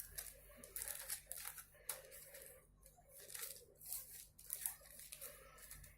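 Faint rustling, crinkling and small plastic clicks of play dough and its plastic moulds and tools being handled, in short scattered sounds.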